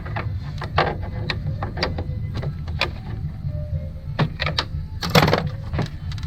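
Irregular light clicks and taps of parts and tools being handled in a car's engine bay, with a louder rattle about five seconds in, over a steady low rumble. A band's music plays faintly in the distance.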